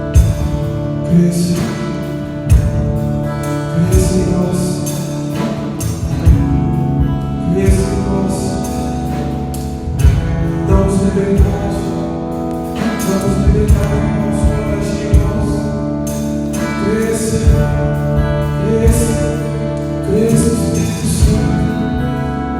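Live church worship band playing: sustained chords over bass and regular drum hits, leading into a sung worship song.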